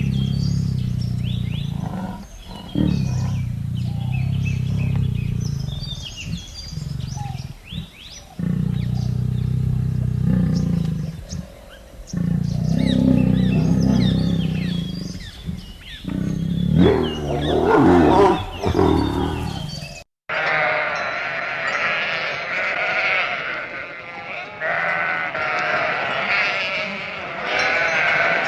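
Animal calls over a steady low rumble with high chirps, one louder call near the middle of the first part; then, after a sudden cut, a flock of sheep bleating, many calls overlapping.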